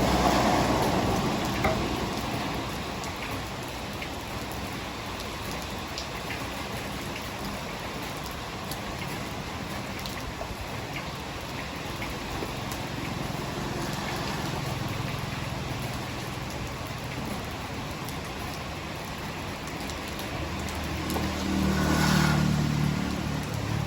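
Heavy rain falling steadily, a dense even hiss. A low rumble swells up near the start and again about 22 seconds in.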